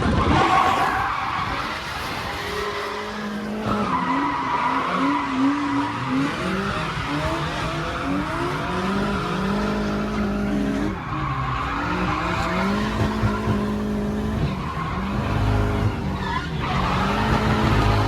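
Drift car engine revving up and down as it is driven hard through corners, its pitch repeatedly rising and dropping, with tyres screeching steadily under it.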